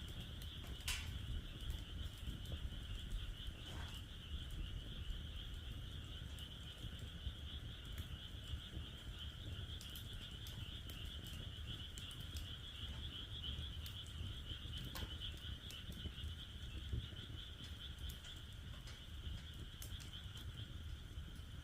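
Wood fire in a fire pit crackling, with a sharp pop every few seconds, over a steady chorus of frogs calling.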